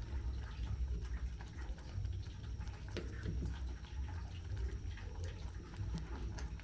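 Ugali being stirred in a sufuria: maize flour and water worked with a cooking stick, with soft scraping and a few light knocks against the pot, over a low steady rumble.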